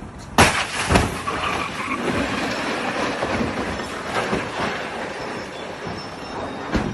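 Vehicle and road noise, with two sudden loud bangs about half a second and one second in, followed by steady noise that slowly fades.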